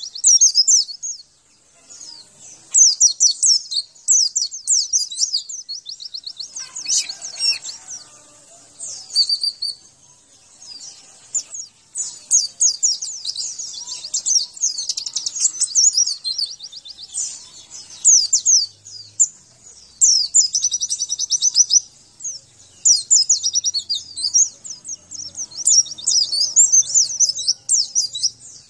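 White-eye (pleci) singing: fast, high-pitched twittering phrases of rapid notes, coming in repeated bursts separated by short pauses.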